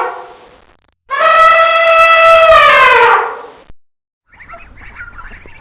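An animal's long, loud call, held for about two seconds and falling in pitch toward the end. It follows the fading tail of a similar call. After a short silence, a fainter jumble of short animal calls begins near the end.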